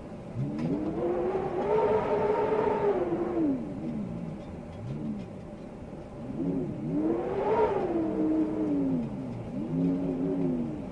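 Storm wind howling, a pitched whistling tone that rises and falls with each gust: two long gusts and a shorter one near the end, over a steady low rush.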